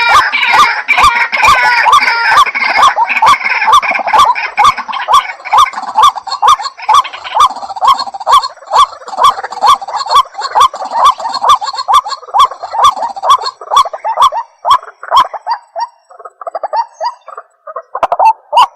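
White-breasted waterhen giving its long, monotonous run of repeated croaking calls, about three notes a second. Near the end the series breaks up into a few softer, scattered notes and stops.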